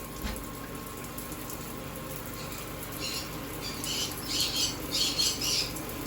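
Parrot giving a string of short, harsh, raspy squawks about halfway through, over a steady low hum in the room.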